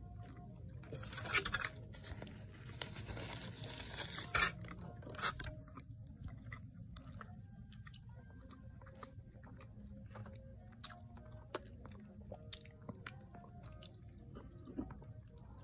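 A woman chewing a burger with dentures, close to the microphone: soft chewing with small wet clicks and smacks. For the first few seconds there is a louder, denser crunchy noise with two sharp peaks.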